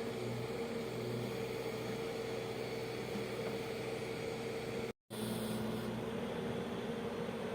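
Diesel engine of a heavy earthmoving machine running at a steady speed. The sound drops out for a split second about five seconds in, then carries on.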